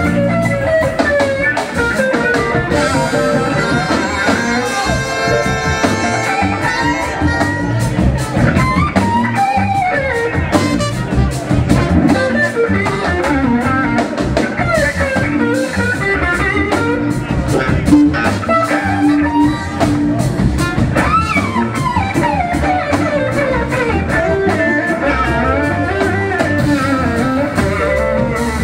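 Live blues-rock band playing loud and steady: an electric guitar lead with gliding, sliding notes over drum kit and bass.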